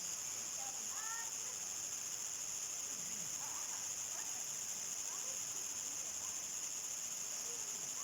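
Steady chorus of crickets, a continuous high-pitched trill, with a few faint brief calls of other animals, around one second in and again a few seconds later.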